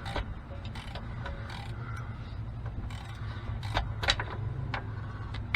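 Scattered light clicks and taps of hand tools and parts being handled, over a steady low hum, with two sharper clicks a little past the middle.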